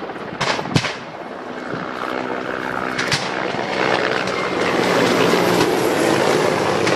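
Helicopter engine and rotor drone, building to its loudest about five seconds in. Two sharp cracks come in the first second and another about three seconds in.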